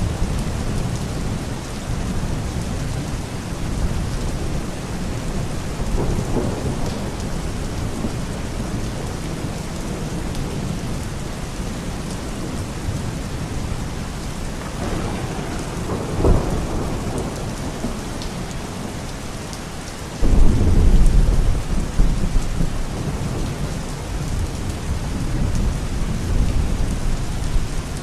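Steady rain with low rolling thunder rumbles, and a sudden louder thunderclap about 20 seconds in that rumbles on for a couple of seconds.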